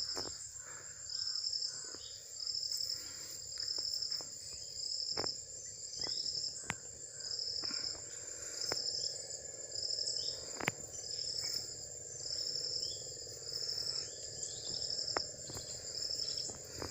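Insects chirping: a steady high trill with a second pulsed call repeating about once a second.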